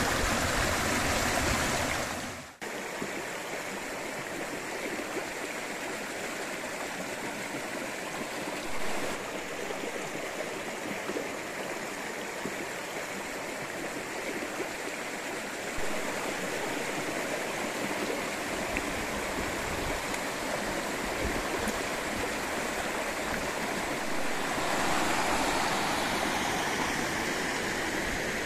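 Mountain stream rushing steadily. The sound cuts out abruptly about two and a half seconds in and comes back slightly quieter.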